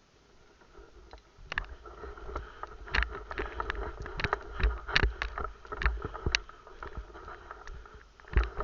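An irregular run of sharp cracks and clicks with dull thumps, starting about a second in and ending with a loud thump near the end.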